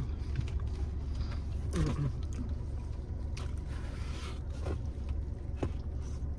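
Steady low rumble of a car idling, heard inside the cabin, with scattered small clicks of eating and handling food.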